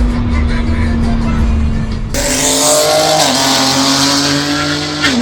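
Car engine under full throttle in a high-speed roll race. For the first two seconds it is a steady low drone. After a cut about two seconds in, the engine note climbs slowly and drops slightly twice, like upshifts.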